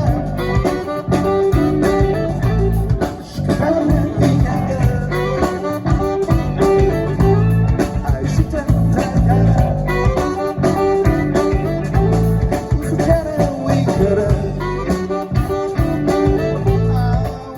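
Live rock band playing a blues-tinged song, guitar prominent over bass and drums with a steady beat.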